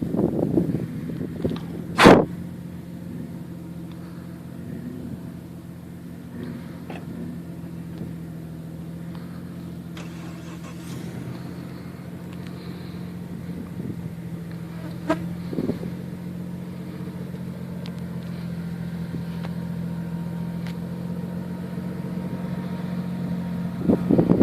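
Off-road 4x4 vehicle engine idling steadily, with one sharp knock about two seconds in.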